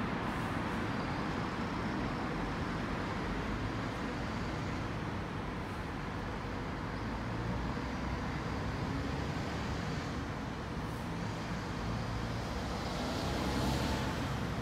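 Steady car noise, road and engine sound with no sudden events, swelling slightly near the end.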